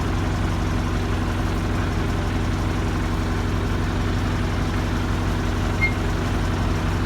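Narrow-gauge tour train's engine running steadily, a constant low hum. A brief high squeak about six seconds in.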